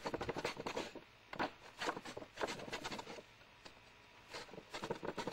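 A blade cutting through a cardboard box in quick rasping strokes, in a few runs with short pauses between, as a flap is cut into the side.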